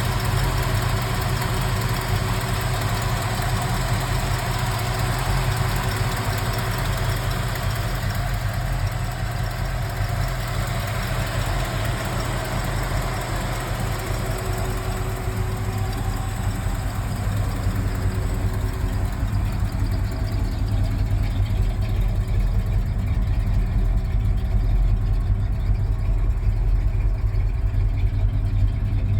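Oldsmobile 455 V8 with dual four-barrel carburettors idling steadily through its exhaust, growing a little louder over the last third.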